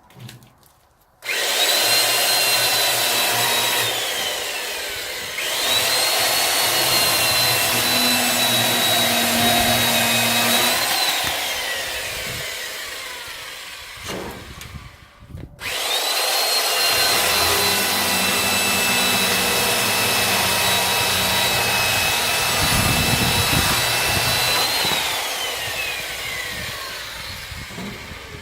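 Electric saw cutting firewood in two long runs: the motor whines steadily, drops in pitch for a moment under load, winds down with a falling pitch, then starts again and cuts until it coasts down near the end.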